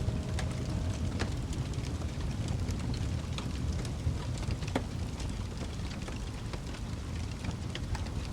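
Wood fire crackling in a fireplace: a steady low rumble of burning with many small crackles and a few sharper pops of burning logs.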